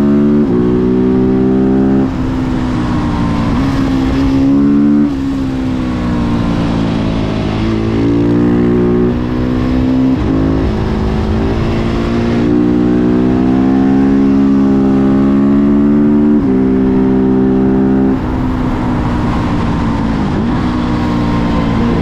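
Husqvarna 701 Supermoto's single-cylinder engine through a Remus Blackhawk exhaust, ridden on the road. The engine note climbs and holds, then drops sharply at each gear change, several times over.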